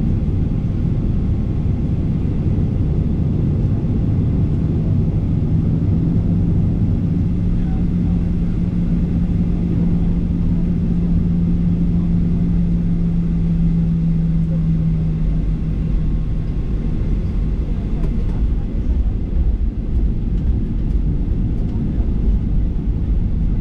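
Cabin noise of a Boeing 737-800 in motion: a loud, steady low rumble from its CFM56-7B engines and airframe. A steady hum rides on it and fades out about two-thirds of the way through.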